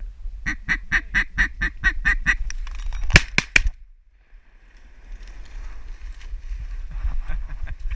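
A rapid, even run of duck quacks, about four a second, ending in a couple of louder, sharper notes. Fainter chatter of quacking follows.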